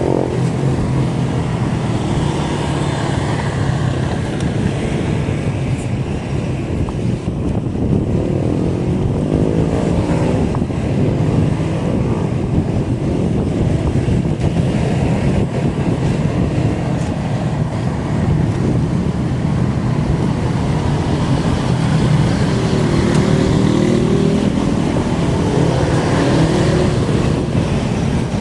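A motor vehicle engine running steadily, its pitch wavering slightly, over continuous rushing road and wind noise.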